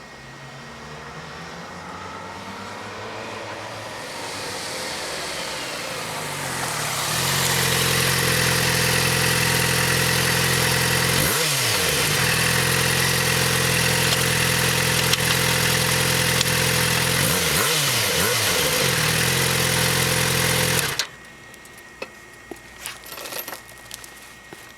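Yamaha FZ6R's 600 cc inline-four through the stock exhaust under way. The engine grows louder over several seconds with sweeping pitch, then runs loud and steady, with the revs dipping and climbing back twice. It cuts off suddenly near the end, leaving faint clicks.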